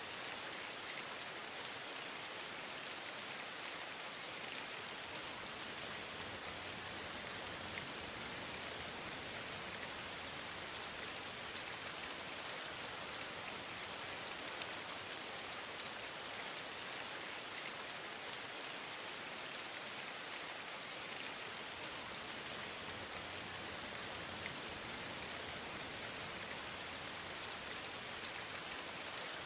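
Steady rain falling, an even hiss with scattered faint drop ticks throughout.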